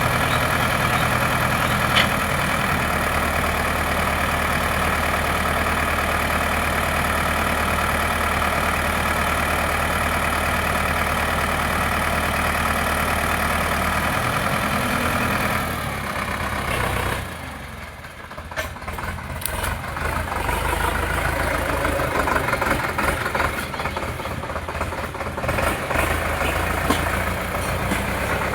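Tractor diesel engine running steadily. About two-thirds of the way through the sound dips briefly, then comes back rougher and more uneven.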